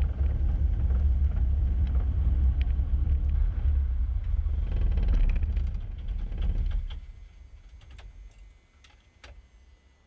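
Cessna 150's four-cylinder Continental O-200 engine running at low power as a steady low rumble, then winding down and stopping about seven seconds in as it is shut down, followed by a few faint clicks.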